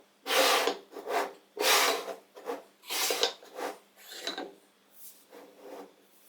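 Wooden end-grain pieces scraping and rubbing against each other or the bench in a series of short strokes, growing fainter toward the end.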